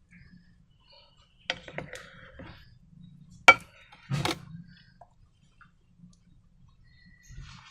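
A few sharp clicks and short crackling taps, the loudest a single sharp click about three and a half seconds in.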